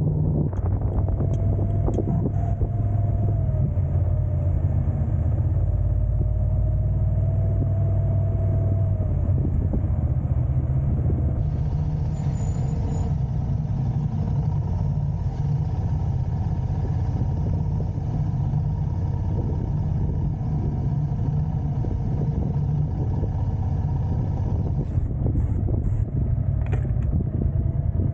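Car driving, a steady low road and engine rumble, with a faint wavering whine during the first third.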